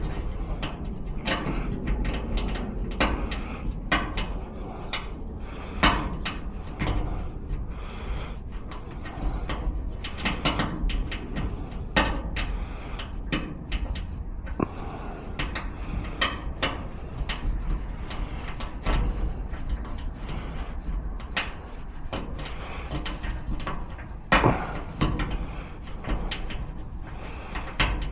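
Hand-tool work: irregular clicks, knocks and rattles of metal and wood being handled, a few sharper knocks standing out, over a steady low rumble.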